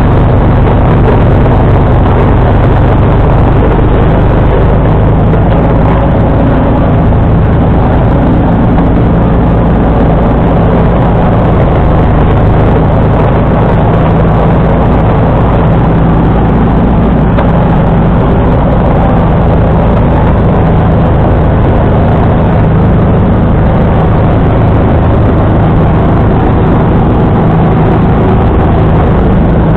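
John Deere 445 garden tractor's V-twin engine running loudly and steadily at working speed while snowblowing.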